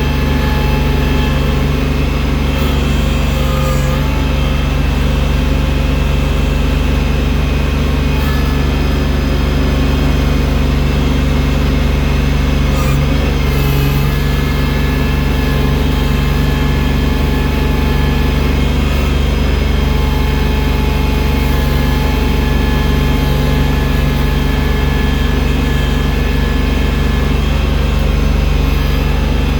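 Engine of a loader with a front bucket, used for clearing deep snow, running steadily at an even pitch throughout.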